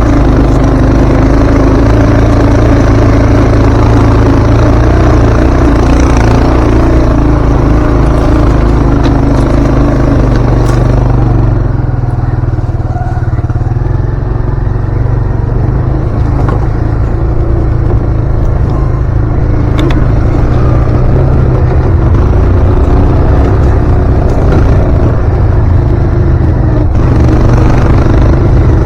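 Kawasaki ATV engine running steadily as it is ridden. It eases off about twelve seconds in and picks back up near the end.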